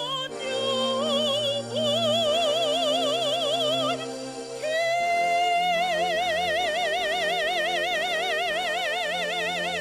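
A woman singing in a high, operatic voice with wide, regular vibrato over sustained instrumental backing. About halfway through she moves to a long, held high note.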